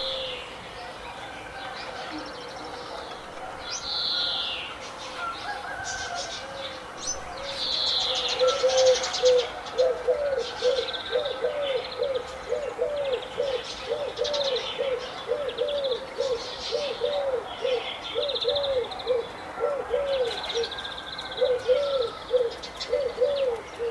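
A mix of birds chirping and calling. About a third of the way in, a low call joins them and repeats steadily, about twice a second.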